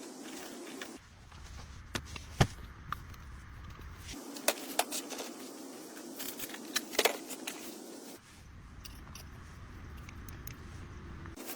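Scattered sharp clicks and clinks over a steady background noise, which changes abruptly three times as the clips cut.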